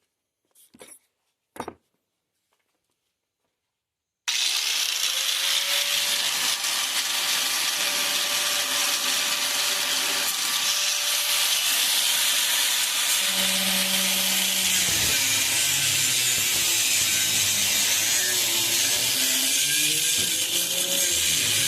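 A power tool cutting into the truck's rusted sheet-metal wheel arch, starting abruptly about four seconds in after two short clicks. It runs as a loud, steady hiss, with a motor tone that wavers as the load changes.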